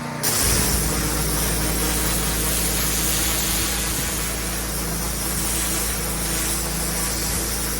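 Engine-driven pressure washer running, with a loud, steady hiss of high-pressure water spray cutting in suddenly about a quarter second in over the low hum of the engine.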